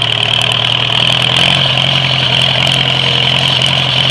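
1945 Farmall A's four-cylinder gasoline engine running steadily, not yet fully warmed up, its note picking up slightly about a second and a half in.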